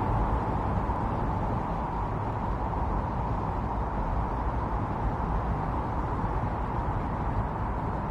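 Strong wind of a snowstorm blowing steadily, an even rushing noise with a deep rumble underneath and no gusts or breaks.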